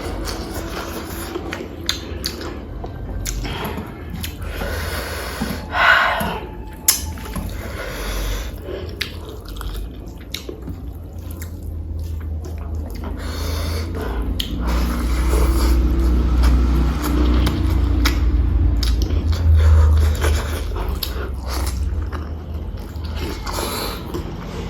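Close-miked chewing and wet mouth noises of a person eating pork curry with rice, with many small clicks and smacks.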